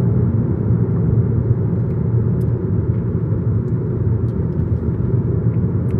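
Steady in-cabin drive noise of a stock VW Golf GTI Mk7 with its 2.0-litre turbo four-cylinder: a low engine hum and road rumble at an even cruise, with no revving.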